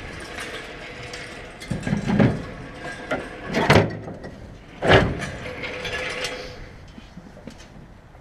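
Several heavy clunks and rattles of metal equipment being shifted and handled, the loudest about two, three and a half, and five seconds in.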